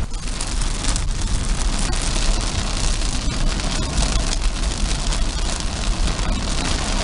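Car driving in the rain, heard from inside the cabin: steady road and tyre rumble with rain hitting the car.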